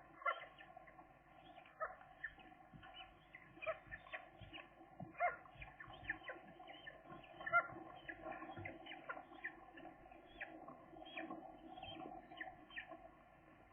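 Gull chicks peeping, a run of short, irregular calls a few times a second.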